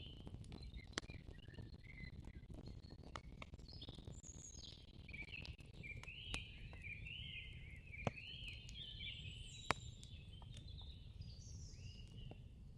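Faint outdoor nature ambience: many small birds chirping in quick, repeated curved calls, with a handful of sharp clicks scattered through it over a low, steady background hiss.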